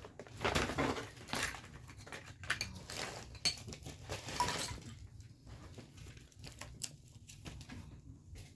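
Household items being picked up and set down: light clinks, knocks and rustling, busiest in the first half and thinning out after.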